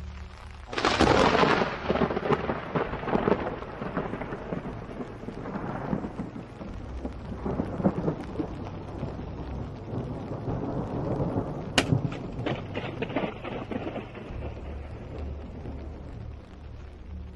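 Thunder: a sudden loud clap about a second in, rolling on in a long rumble that swells and fades for many seconds, with a second sharp crack later on.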